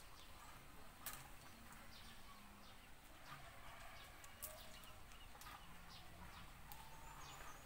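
Near silence with faint outdoor ambience: scattered short bird chirps and a few light clicks.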